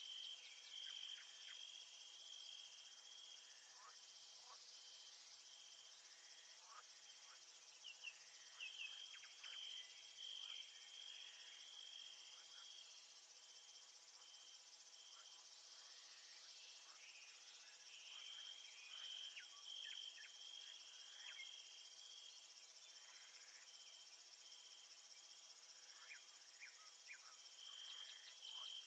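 Faint nature ambience of crickets chirping: long trains of rapid, even pulses that stop and start again, over a hiss of other insects, with scattered short high chirps.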